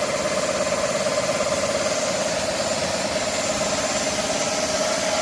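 Cordless stick vacuum cleaner running steadily below its maximum power setting: a constant motor whine over rushing air.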